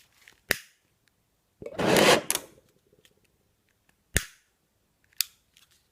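Fuel vapor in a homemade jar pulse engine catching with one brief whoosh about two seconds in, dying out at once without settling into pulsing: a failed start. Sharp single clicks come before it and twice after it.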